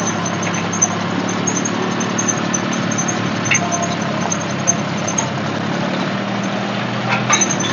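Tractor diesel engine idling steadily, with a few short clicks near the end.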